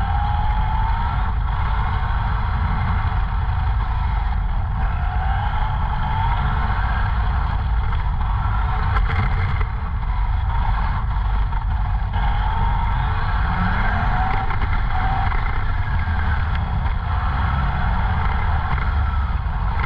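Tamiya TT-01 RC car's brushless electric motor whining, its pitch rising and falling again and again with the throttle, over a heavy low rumble of wind and road noise on the car-mounted camera.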